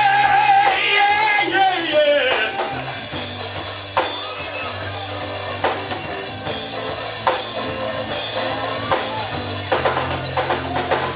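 Church band music: sustained low chords with tambourine and drum hits about every second and a half. A voice holds a long wavering note for the first couple of seconds.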